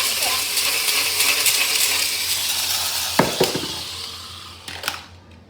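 Beyblade Burst spinning tops whirring and scraping against each other in a plastic stadium, a dense hiss that fades as they slow, with sharp clacks of collisions about three seconds in and again near the end.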